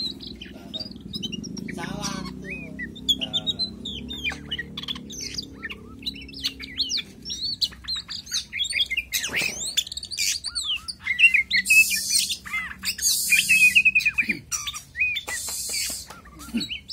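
Oriental magpie-robin (kacer) singing a rapid, varied run of loud whistles, slurs and chirps, broken by a few harsh, hissing bursts in the second half. The bird is in the excited 'ngobra' state that keepers take as ready for a song contest.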